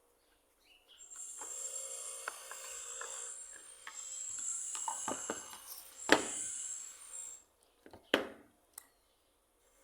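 Scraping on wood in two long rasping strokes, the first starting about a second in and the second ending just past the middle, with a sharp knock during the second stroke and another knock shortly after it.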